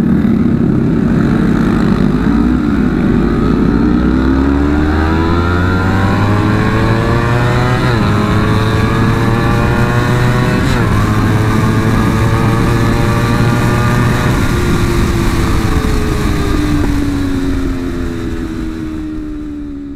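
Honda CBR250RR parallel-twin engine accelerating hard through the gears, its pitch climbing with two quick drops at the upshifts about eight and eleven seconds in, then falling as the rider rolls off the throttle, with a steady rush of wind at high speed. The sound fades away near the end.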